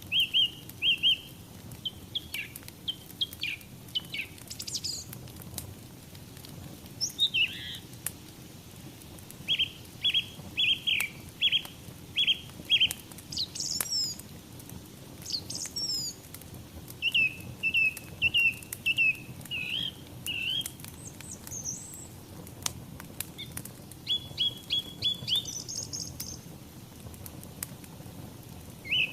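Small songbirds chirping: quick runs of short, repeated notes in phrases a second or two long, with a few higher calls among them. Underneath is a soft steady hiss with faint scattered crackles, fitting a wood fire burning.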